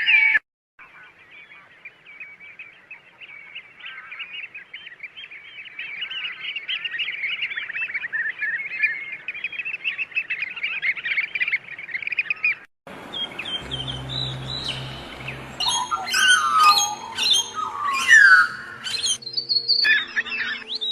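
Birds chirping: first a dense, overlapping chatter of many small high chirps that slowly grows louder. After a sudden break about two-thirds through, louder and more varied calls follow, some of them falling in pitch, over a low steady hum.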